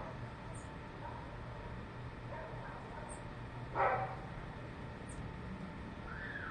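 A dog barks once, a short single bark about four seconds in, over a steady low hum. Faint, brief high chirps come every couple of seconds.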